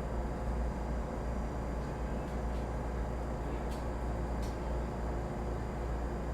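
Echigo Tokimeki Railway ET127 series electric train running at steady speed, heard from inside the car: an even rumble of the wheels on the rails with a faint high whine, and a few short sharp clicks between about two and four and a half seconds in.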